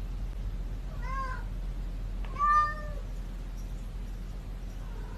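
Domestic cat meowing twice, about a second in and again about a second later, the second meow louder and longer, over a steady low hum.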